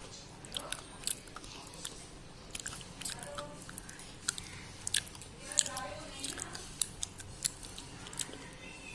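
Thick white slate pencils being bitten and chewed: sharp, irregular crunches and clicks.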